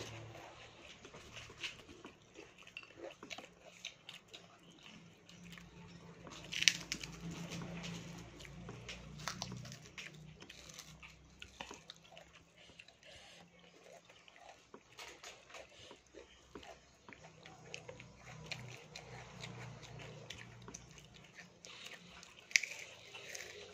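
Close-up chewing and crunching of fried grasshoppers with rice, with many short crisp crunches and two sharper, louder cracks, about a third of the way in and near the end.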